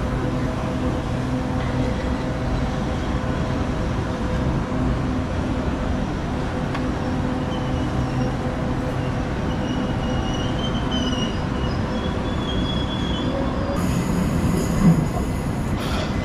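Southeastern passenger train running on the rails: a steady rumble with a low hum, and faint high-pitched wheel squeal through the middle. A brief louder bump comes near the end.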